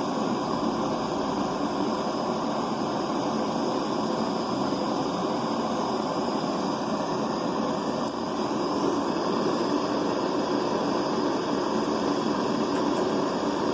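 Hand-held butane torch burning with a steady roar, its flame heating an aluminium bar that is not yet hot enough for the filler rod to flow.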